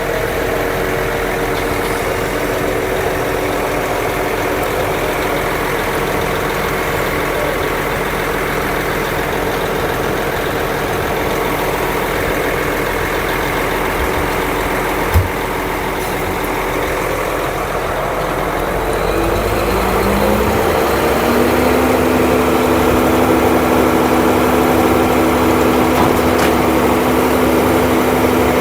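Heavy truck engines of a concrete pump and transit mixer running steadily. About 19 seconds in, the engine speed rises and then holds at a higher, steady pitch. There is a single short knock about midway.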